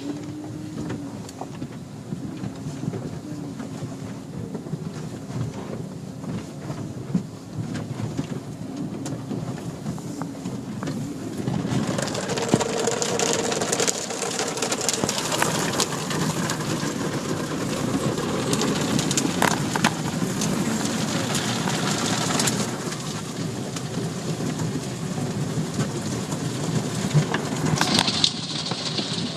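Automatic car wash heard from inside the car: a low machine hum, then from about 12 seconds in a louder, dense rush of water spraying and spattering on the car's body that keeps on.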